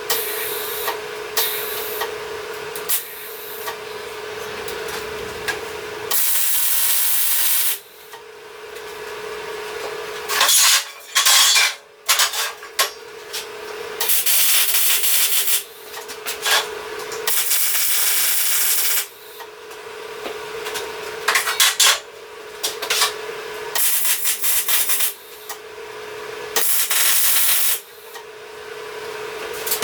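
Tack welding on the steel swing-arm bracing: several separate bursts of crackling hiss, each lasting one to two seconds, over a steady hum, with a few clicks and taps between the bursts.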